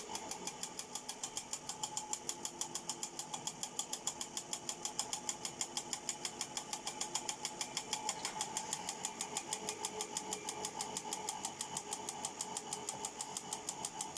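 Diesel air heater (Webasto-type) running on the bench without its control unit: the blower motor whirs steadily while a sharp, even ticking repeats about five times a second, typical of the dosing fuel pump pulsing as it tries to prime. Fuel is not yet getting through, the pump being a 24-volt unit run on too little voltage.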